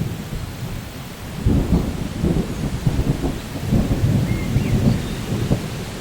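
Steady rain falling, with a low rumble of thunder rolling in about a second and a half in and lasting several seconds.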